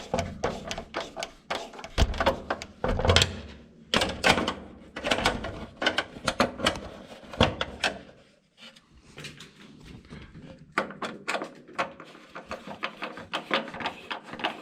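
A run of irregular knocks and clicks, dying down for a couple of seconds just past the middle, then picking up again.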